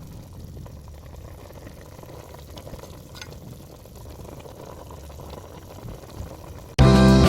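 Chicken cooking in a pan, a steady soft simmering and sizzling. Guitar music starts abruptly near the end.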